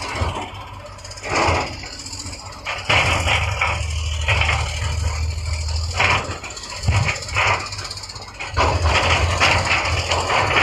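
Diesel engine of heavy earthmoving machinery running with a steady low drone, overlaid by repeated bursts of clanking and scraping from the machine working.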